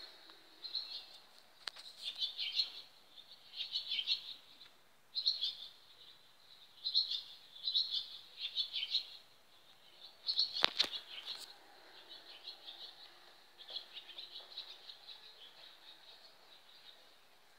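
Birds chirping in short, repeated bursts, with a single sharp knock about ten seconds in.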